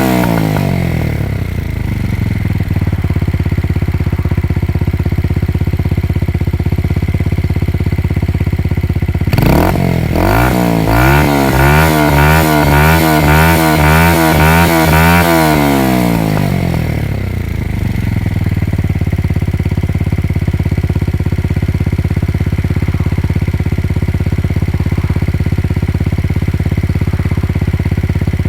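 Yamaha motorcycle engine through its exhaust, dropping from a rev to a steady idle. About nine seconds in it is revved sharply, then blipped rapidly up and down, about twice a second, for some six seconds before falling back to idle.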